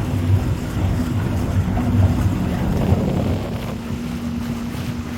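A sailing yacht's engine runs steadily as the boat motors along, a low even hum with a steady tone above it, under wind buffeting the microphone.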